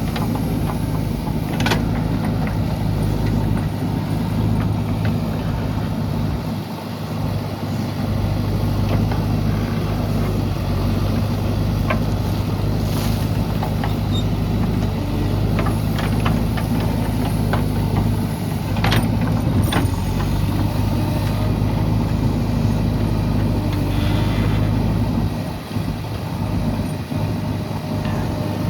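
JCB 3DX backhoe loader's diesel engine running steadily as it digs and loads dry soil, with a few sharp knocks now and then.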